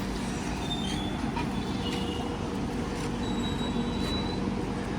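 Indian Railways train running past: a steady rumble with a droning hum, faint clicks, and a few short high-pitched tones.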